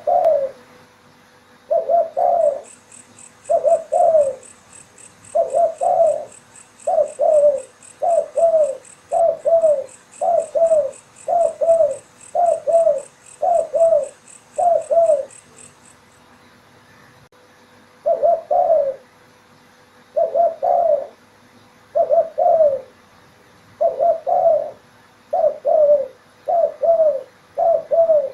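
Spotted dove (tekukur) cooing over and over, one short phrase about every second, with a pause of a couple of seconds past the middle. A fast, high-pitched pulsing trill runs through the first half.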